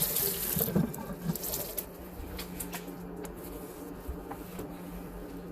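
A damp cloth briefly scrubbing and wiping the inside of a microwave, then a steady low hum with a few light clicks.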